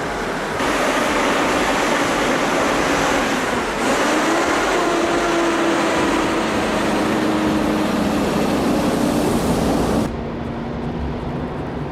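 Heavy truck running on a road: a steady engine drone under a haze of tyre and wind noise. The sound changes abruptly a few times, with the engine pitch rising about four seconds in, and it drops in level and loses its hiss about ten seconds in.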